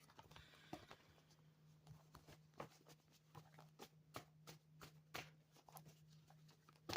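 Near silence: a low steady hum with faint, scattered sharp clicks and taps.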